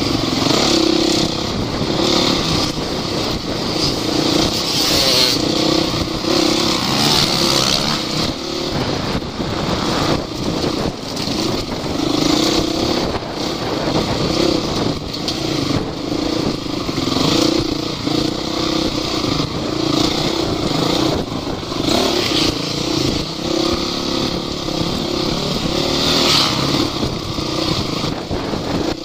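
Off-road vehicle engine running continuously under load, its pitch rising and falling as the throttle changes while driving over rough terrain.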